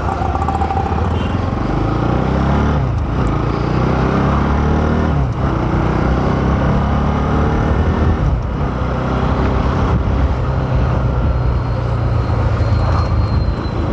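Motorcycle engine accelerating through the gears: its pitch climbs, then drops at each of three upshifts about two, five and eight seconds in, over a steady rush of wind and road noise.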